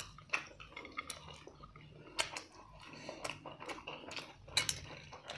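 Close-up chewing and lip smacking of people eating pork and black rice by hand, with a few short sharp smacks scattered through and a pair of them near the end.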